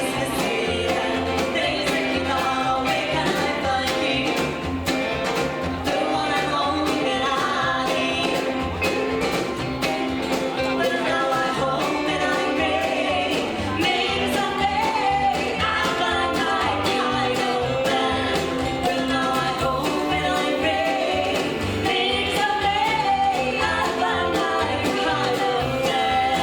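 Rockabilly band playing live with a singer over guitar, bass and a steady drum beat.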